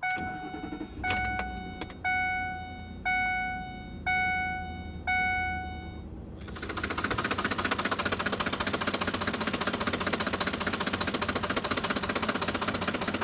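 A vehicle warning chime dings about once a second, six times. About six seconds in, the Ford F-150's engine starts and runs with a fast, loud ticking clatter, the ticking and knocking typical of failing cam phasers.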